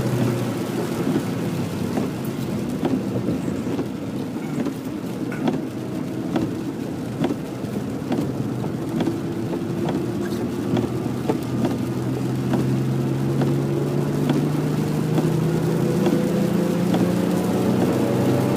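Onboard sound of a 2011 Ford Mustang lapping a soaked track in heavy rain. The engine eases off and the car runs on with a hiss of rain and spray and regular ticks for several seconds, then the engine pulls again, rising steadily in pitch as the car accelerates.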